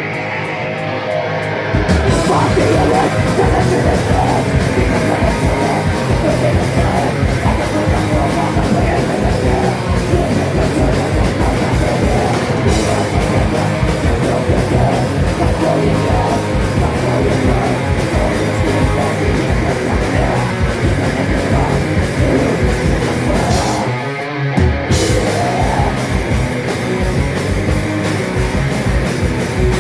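Live metal band playing an instrumental passage with distorted guitars and drums. The guitar plays alone for about two seconds, then the full band comes in with rapid kick-drum strokes. The music briefly drops out about three-quarters of the way through, then resumes.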